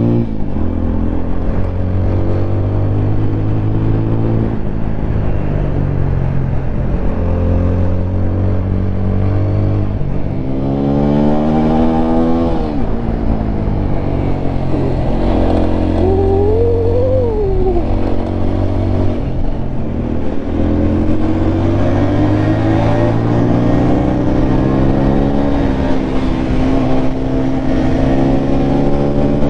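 Single-cylinder 200 cc motorcycle engine revving up and dropping back again and again as the bike is ridden hard through sharp corners, with its worn drive chain making noise.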